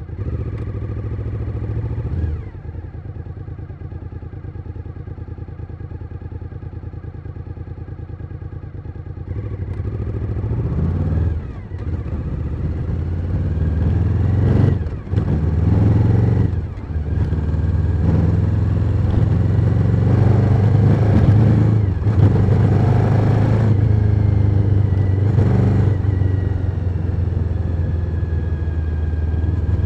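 Suzuki SV1000N's 90-degree V-twin ticking over at low revs for several seconds, then pulling away. The engine note climbs and drops sharply at several gear changes before settling into a steady run at speed.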